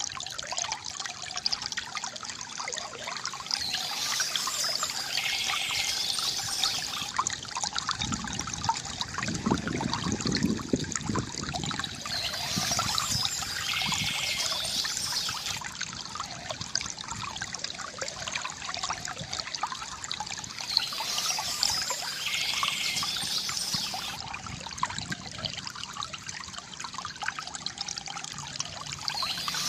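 Stream water trickling and splashing steadily, with a short spell of high bird chirping recurring about every eight seconds.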